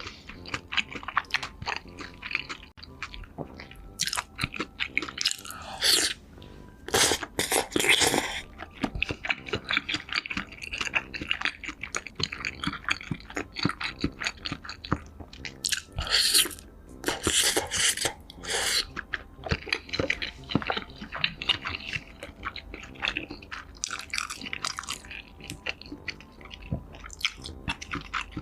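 Close-miked chewing with crisp crunching bites, a steady run of sharp crunches with two louder stretches, one about six seconds in and one about sixteen seconds in.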